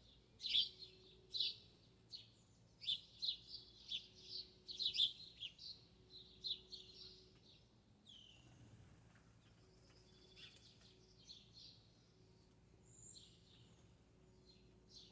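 Small birds chirping in rapid, repeated short notes for about the first seven seconds, then fainter and sparser chirps with a brief rustle in between.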